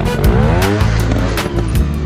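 Dirt bike engine revving up and back down over about a second, heard over background music.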